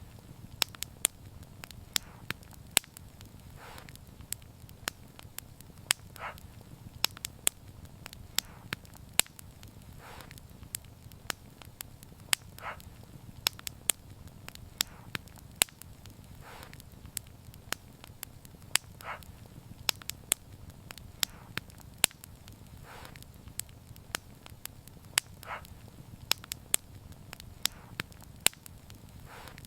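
Wood fire crackling: a constant scatter of sharp pops and snaps over a low steady rumble, with a soft puff of flame noise every few seconds.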